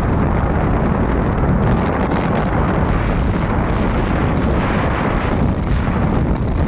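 Wind buffeting the microphone of a moving motorbike: a steady, loud low rumble of rushing air with vehicle noise under it.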